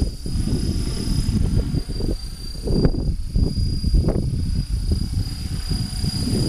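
Wind buffeting the microphone in heavy gusts, with the steady high whine of an HK-500GT RC helicopter's electric motor in flight, its pitch wavering slightly.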